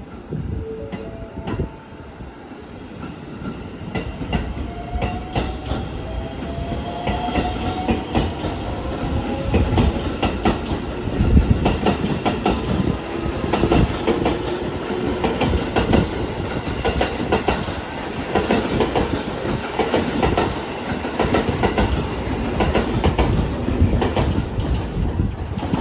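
A JR West electric commuter train pulling out from a platform. Its motors whine and rise in pitch as it accelerates over the first several seconds. Its wheels then clack steadily over the rail joints as the carriages roll past, loudest around the middle.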